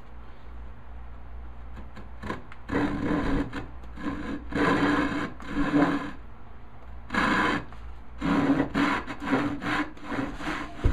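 Hand panel saw cutting through a walnut board in repeated rasping strokes, starting about two seconds in.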